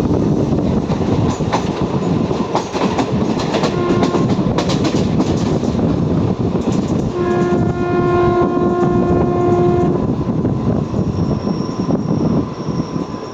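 A train running through a railway station, its wheels clattering over the rail joints in a steady rumble with a run of sharp clicks early on. The locomotive's horn gives a short toot about four seconds in, then one long blast of about three seconds starting around seven seconds in.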